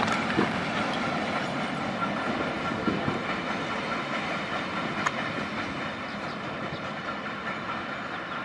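Container freight train rolling away along the track: a steady rumble of wagon wheels on the rails with occasional clicks, slowly fading.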